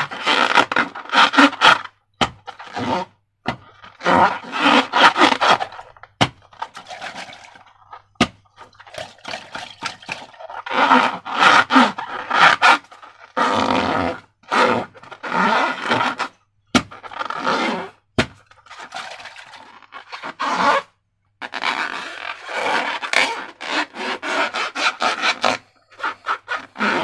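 Slime-filled rubber balloon being squeezed and worked by hand: wet scraping and squishing in repeated bursts of one to two seconds, with a few sharp clicks between them.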